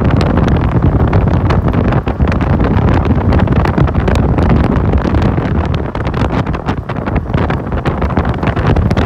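Loud, steady wind buffeting the microphone on a moving motorcycle taxi, with the motorcycle running underneath.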